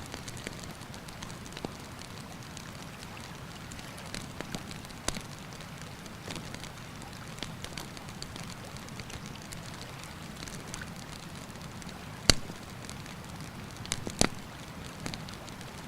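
Wood campfire crackling with scattered sharp pops, the loudest about twelve and fourteen seconds in, over the steady rush of a river.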